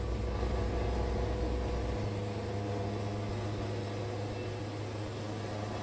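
Wood-Mizer band sawmill running with a steady engine hum; its low note shifts upward about two seconds in.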